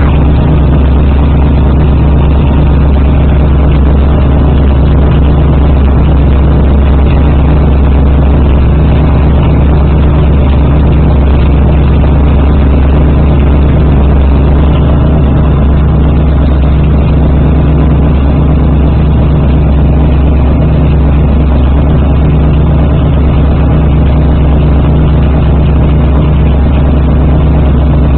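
1984 Pontiac Trans Am's V8 running steadily through a new Flowmaster exhaust, a loud, even, deep exhaust note with no revving.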